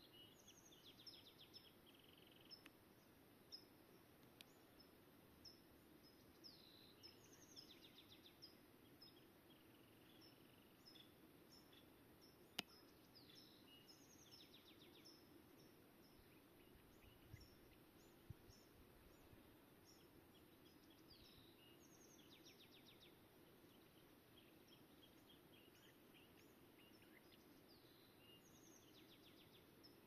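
Small songbirds chirping and singing faintly, a mix of short high chirps and quick rattling trills, over a low steady background hum. A single sharp click comes about twelve seconds in.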